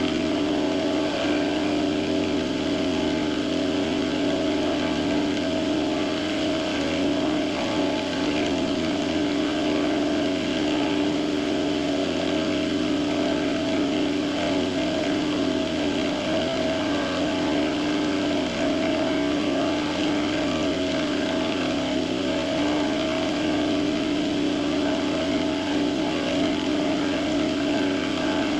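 Benchtop machine tool running steadily while its cutter takes a slow pass along the edge of an aluminium block. The motor hum holds one steady pitch under the cutting noise throughout.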